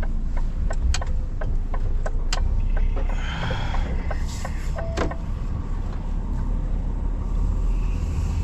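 Lorry engine running steadily under the cab, with a regular ticking about two times a second through the first half.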